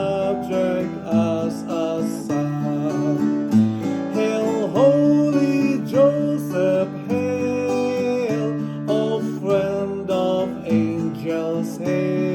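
A hymn played on acoustic guitar, strummed chords under a held, gliding melody line.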